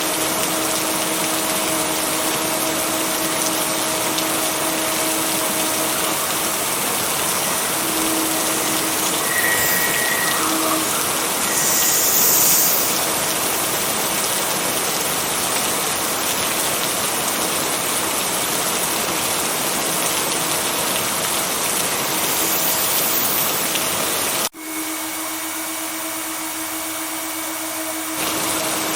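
Steady rainfall, an even hiss with faint steady tones under it. About 24 seconds in, the sound cuts out abruptly and comes back quieter and thinner for a few seconds before the full rain resumes near the end, like a splice between recordings.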